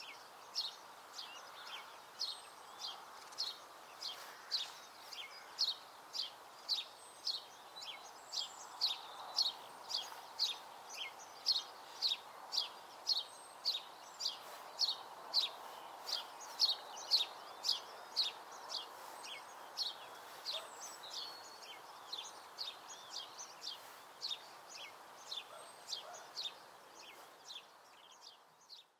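A songbird repeating a single short, high chirp at an even pace of about one and a half a second, over a steady soft hiss of outdoor background noise.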